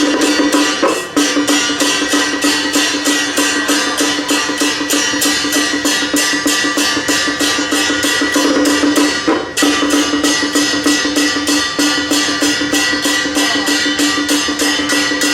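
Temple procession music: percussion beating fast, even strokes about four to five a second over a steady held wind tone, with two brief breaks.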